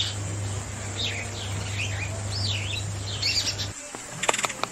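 Birds chirping in quick repeated calls, over a steady low hum that cuts off suddenly near the end; a few sharp clicks follow.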